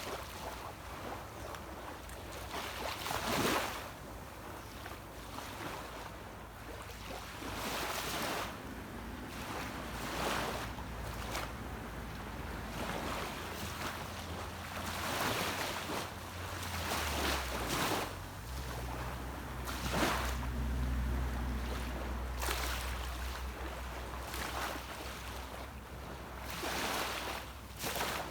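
Small sea waves washing onto a beach, a swell of surf every couple of seconds. Under them is the low drone of a distant boat's engine, which grows stronger past the middle.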